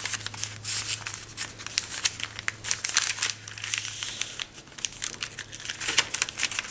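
A sheet of origami paper being handled, pressed flat and creased, giving irregular crinkling and rustling.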